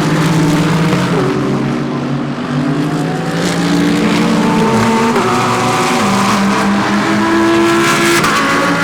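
GT3 race cars running through a corner, their engines changing gear with stepped shifts in pitch as they brake and accelerate, several engine notes overlapping.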